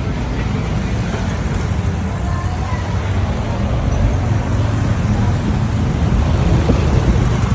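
Motorcycle engine running while riding through traffic, a steady low drone over road noise that grows slightly louder.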